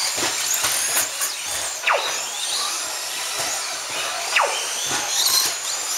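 Several RC stadium trucks racing, their motors whining at high pitch; a whine drops sharply in pitch about two seconds in and again past the middle as a truck lets off or brakes.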